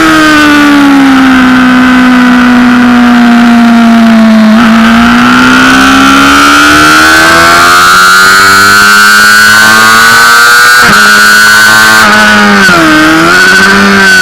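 Inline-four engine of a 2007 Honda CBR600RR sportbike heard on board at track speed, very loud. Its pitch falls for about four seconds as the bike slows, then climbs steadily under acceleration. It drops sharply at an upshift near eleven seconds, climbs again, and dips briefly a little before the end.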